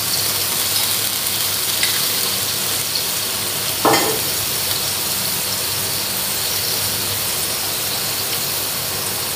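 Chicken pieces with lemongrass, ginger and garlic sizzling steadily in hot oil in a wok, with one short thud about four seconds in.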